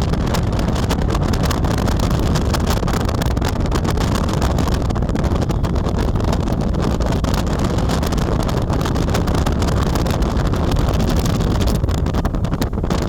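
Wind buffeting the microphone over the steady rumble of a moving car, loud and unbroken.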